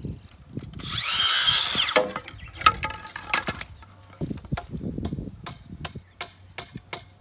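Bamboo support pole being worked with a tool: about a second of harsh, high sawing or scraping, then a run of sharp wooden knocks and clicks.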